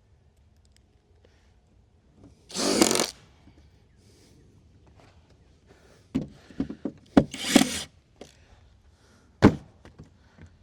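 Wood being handled: two short scraping sounds and a series of knocks, with one sharp knock near the end.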